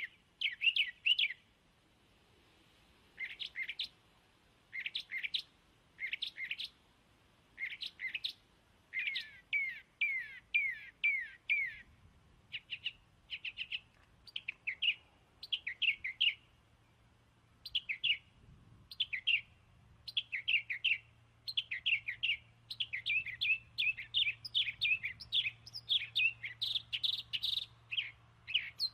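Birds chirping: short, high chirps in quick clusters, repeating every second or two and coming more thickly near the end.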